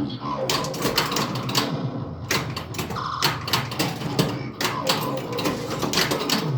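Bally Centaur pinball machine in play: a busy, irregular clatter of ball strikes and flipper and bumper coils firing, mixed with the game's electronic sound effects.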